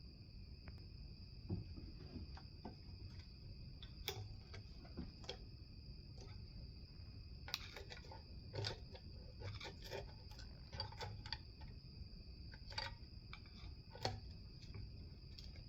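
Faint, scattered clicks and taps of hand tools and engine parts being handled, irregular and a little busier in the middle, over a steady faint high-pitched whine.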